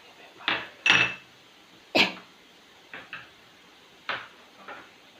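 A spoon knocking and clinking against a cooking pan, about seven irregular sharp taps, one with a short metallic ring, as ground spices are added to sautéed onions.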